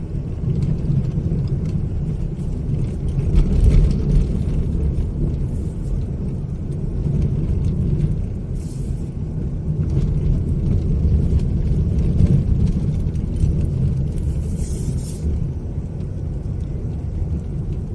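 Small car moving slowly, a steady low engine and road rumble. Two brief hisses come through, about nine and fifteen seconds in.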